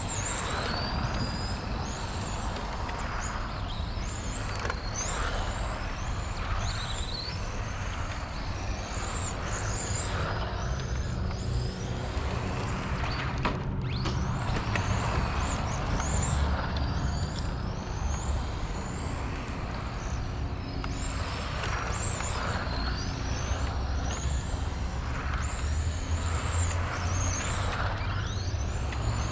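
XRAY FK05 radio-controlled car with a 13.5-turn brushless motor driving, its high whine gliding up and down in pitch again and again as it speeds up and slows, over a steady low rumble.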